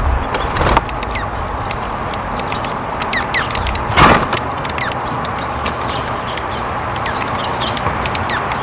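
Small birds chirping in quick, short calls over a steady outdoor hiss. A brief loud rush, the loudest sound, comes about four seconds in, with a smaller one just under a second in.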